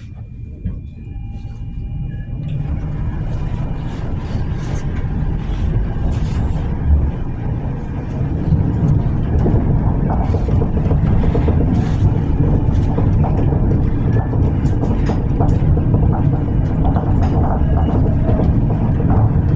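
Tram running, heard from inside the car: a steady low rumble that grows louder over the first several seconds, with frequent clicks and rattles from the wheels and body.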